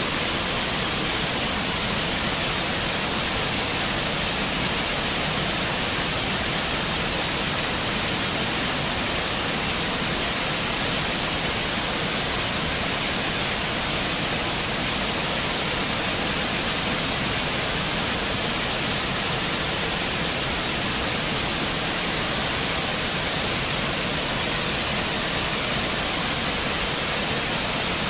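Flowing water running as a steady, unbroken rush with an even hiss, like a stream or small waterfall.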